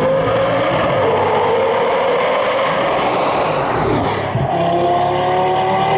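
Lamborghini Gallardo V10 passing at speed in a tunnel: the engine note climbs as it comes in, then gives way to a dense rush of engine and exhaust noise. About four and a half seconds in, a steady, lower engine tone takes over.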